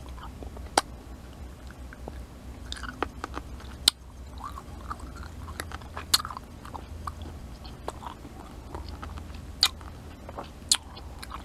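Close-miked chewing of a pickle: softer wet mouth sounds between about five sharp crunches.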